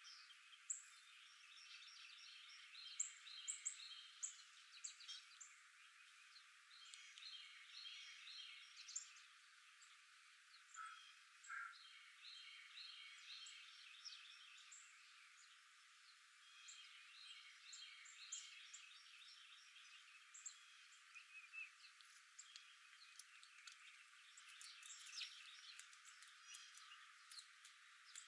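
Faint outdoor chorus of many small animal calls: short high chirps and quick trills that overlap and repeat with no pause, thin-sounding with no low tones.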